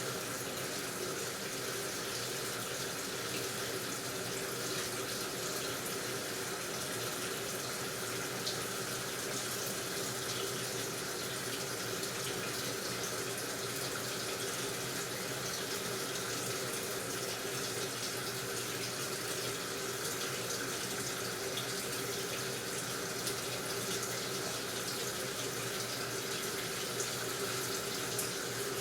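Water running steadily into an AQUA washing machine's tub as it fills, with a faint steady hum underneath.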